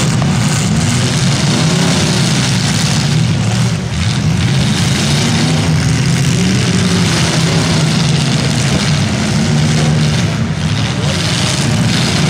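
Several demolition derby cars' engines running and revving loudly together, their pitches wavering up and down over a dense roar of noise.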